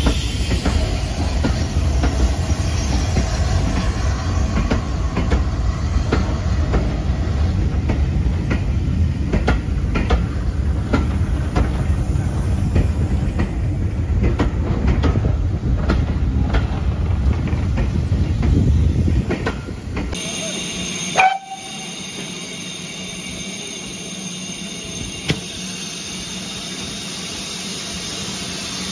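A train of railway passenger coaches rolling past close by: a steady heavy rumble of wheels on track, with repeated clicks as the wheels cross rail joints. About 20 s in the sound switches to a quieter, steady hiss from a standing steam locomotive, with a sharp click shortly after.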